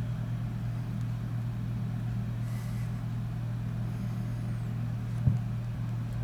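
A steady low hum, with a single short knock about five seconds in.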